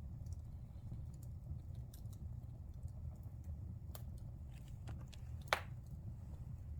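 Wood fire burning in a fireplace: a steady low rumble with scattered crackles, and one loud sharp pop about five and a half seconds in.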